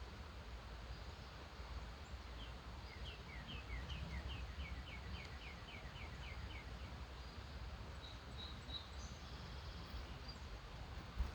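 A bird singing a quick series of short down-slurred notes, about five a second for several seconds, followed by a few higher, thinner notes. A steady low rumble lies underneath.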